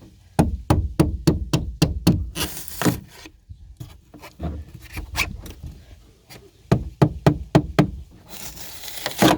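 A hand tool repeatedly knocking and prying at old pour-in flotation foam in a boat hull, chipping it loose, in quick runs of about three sharp knocks a second. Short scraping rasps come between the runs as foam pieces are pulled free.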